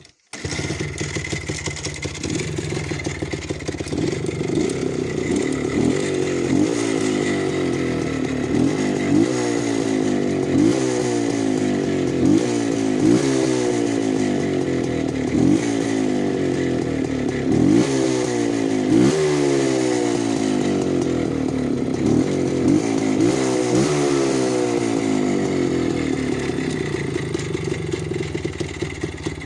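Minsk motorcycle's two-stroke single-cylinder engine catches and runs. From about six seconds in, the throttle is blipped over and over, with a rev rising and falling roughly every second and a half. The engine stops at the end.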